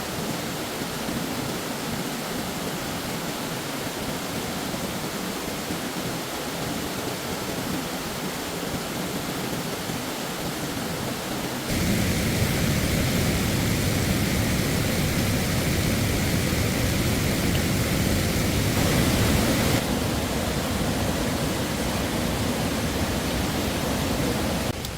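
Steady rush of flowing stream water. It jumps abruptly louder and fuller about halfway through, then drops back in two steps near the end.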